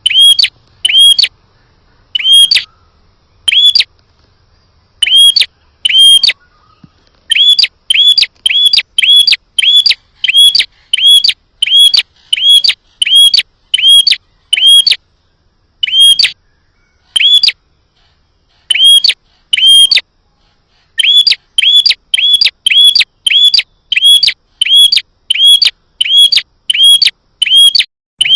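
A prenjak (prinia) calling a loud series of short, sharp chirps, about two to three a second, in runs broken by brief pauses: the bird's lure call.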